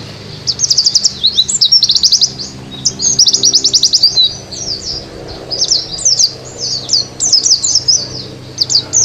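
White-eye (Zosterops, 'pleci') singing a fast, continuous high-pitched twittering song of rapid trills and chips, thinning briefly about halfway through before picking up again.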